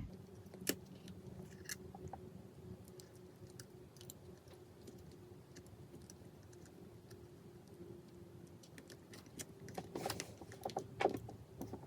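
Small, light clicks and taps of phone parts and hand tools being handled during a smartphone repair. They are scattered and sparse at first, with a louder flurry of clicks near the end, over a faint steady hum.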